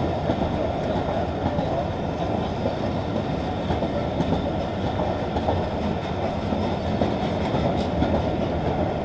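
Railway passenger coaches rolling past alongside a platform, a steady rumble of wheels on the rails with clacks over the rail joints.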